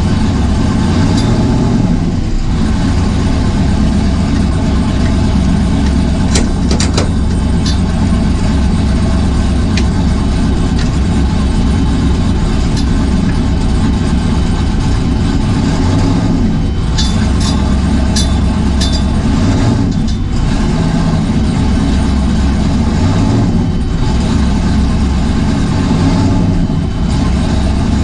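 Drag-racing 1978 Camaro's engine running steadily at idle. A few brief sharp clicks come through about six to seven seconds in and again around seventeen to nineteen seconds.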